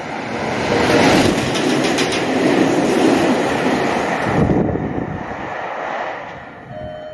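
Meitetsu 9500 series electric train running through the station without stopping: a loud rush of wheels on rail that builds over the first second, holds for about four seconds with a few wheel clacks, then fades as the train moves away.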